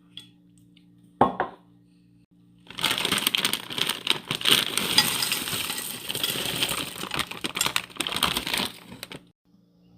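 A single sharp knock, then several seconds of busy metallic clinking and scraping: a spoon working thick condensed cream soup out of a metal can onto shredded chicken in a pan.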